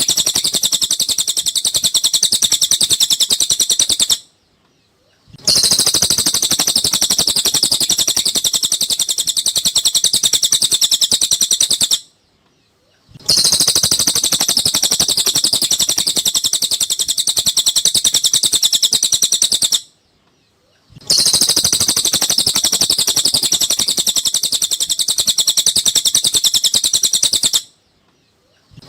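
Cililin bird singing a rapid, high-pitched chattering song in bouts of about seven seconds, each broken by a silence of about a second, repeating at even intervals.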